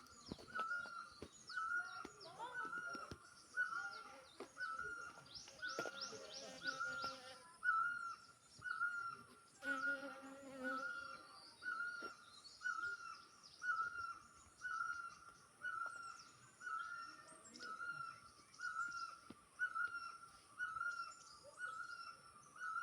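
Birds calling: one bird repeats a short mid-pitched note about once a second, steadily, while others chirp and trill higher up. A fast trill comes about six seconds in and a buzzy rattle about ten seconds in, over a steady high insect hiss.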